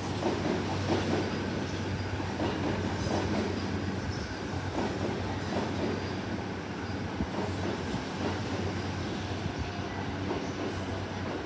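Electric train moving through the station, a steady low hum with irregular wheel-on-rail clatter.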